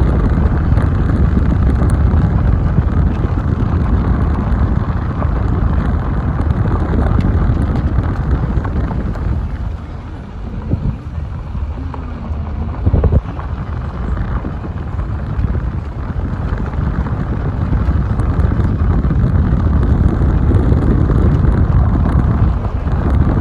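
Wind buffeting the microphone over the low rumble of a car driving along a road, easing for a few seconds around the middle, with a single sharp knock near the end of that lull.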